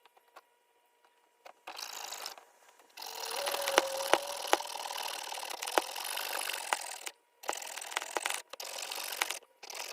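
A power tool cutting through a sheet of fiberglass, run in several stretches with short stops between them and a few sharp clicks.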